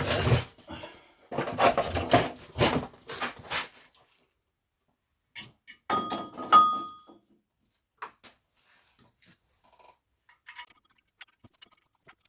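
Metal parts and tools being handled: a run of knocks and rattles, a pause, then a few clanks with a short metallic ring about six seconds in, followed by faint scattered ticks.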